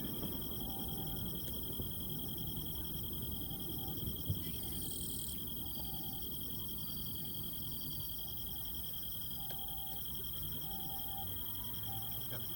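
Summer night insects chirring: a continuous high, steady trill with rapid pulsing trills above it and short lower notes repeating about once a second, over a low background rumble.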